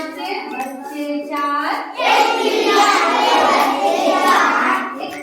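Children chanting a Hindi poem in a sing-song unison. About two seconds in, the whole group joins louder for a couple of seconds before it thins again.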